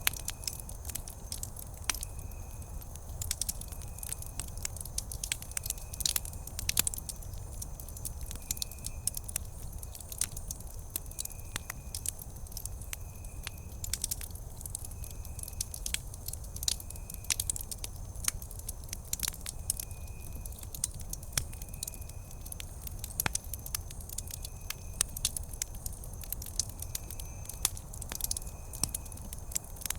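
Campfire burning with frequent sharp, irregular crackles and pops over a low steady rumble. A faint high chirp repeats in short dashes about once a second in the background.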